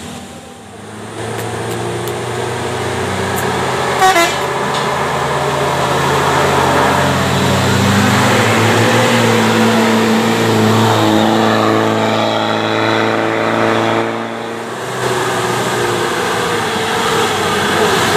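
Heavy truck diesel engine running under load, swelling up about a second in and then holding steady, with a short sharp sound about four seconds in.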